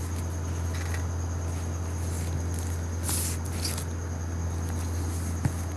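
Steady low electrical hum with a faint high whine and hiss of background noise, broken by a short soft hiss about three seconds in.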